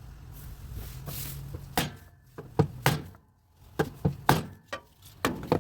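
Light hammer taps driving a new brass bushing into a Whirlpool washing machine. About eight sharp knocks come at an uneven pace, starting about two seconds in.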